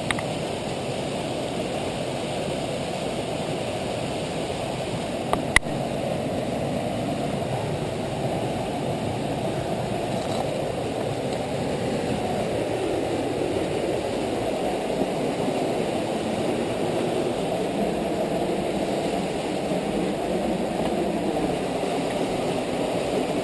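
Waterfall rushing steadily, an even low noise of falling water, with a single sharp click about five and a half seconds in.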